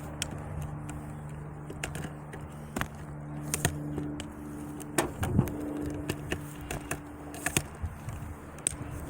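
An engine running steadily at idle, with scattered clicks and knocks of parts being handled.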